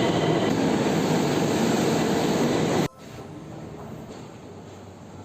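Tehran Metro subway train running, a loud steady rumble and rushing noise that cuts off abruptly about three seconds in, leaving fainter background noise.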